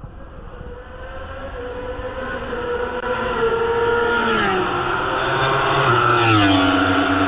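Racing motorcycle engine running at high revs, growing steadily louder as it approaches. Its pitch drops in a step a little past halfway and again near the end.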